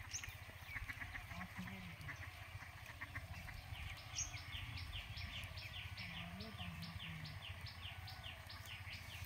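A bird calling in a quick series of short high notes, about three a second, starting about four seconds in, over a steady low rumble. Before it there is a fast run of ticks.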